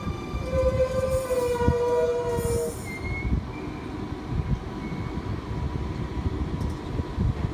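Sydney Millennium (M-set) electric train braking to a stop at the platform. Several whining tones from its motors and brakes fall slightly in pitch and die away about three seconds in, with a brief hiss. A steady low rumble carries on under it.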